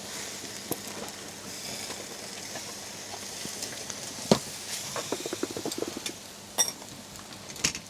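Meat and onions sizzling on a camp grill: a steady high hiss. A few sharp clicks and a short run of small ticks come through it, most around the middle and near the end.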